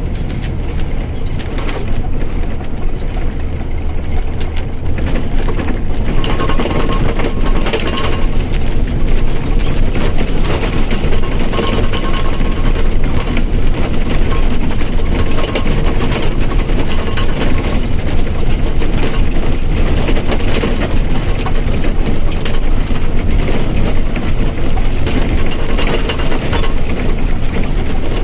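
Mercedes-Benz OF 1722 M bus's diesel engine and drivetrain running steadily, a loud mechanical drone with a faint whine from the differential. It grows louder over the first few seconds.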